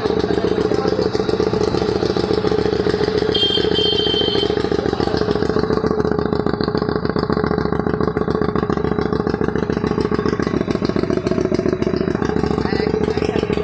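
Motorcycle engine idling steadily, its rapid firing pulses even throughout. A brief high-pitched sound joins in about three and a half seconds in.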